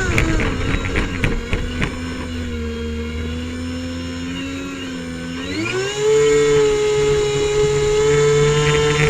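Airboat engine and propeller running, the pitch dropping to a lower steady note, then revving up to a higher steady note about six seconds in.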